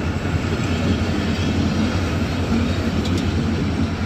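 Train running past on the rails: a steady rumble of wheels and coaches on the track.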